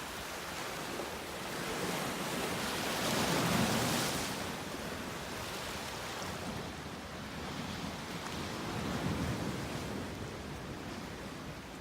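Surf on a beach: a steady wash of waves with two louder breakers, one about three and a half seconds in and another around nine seconds.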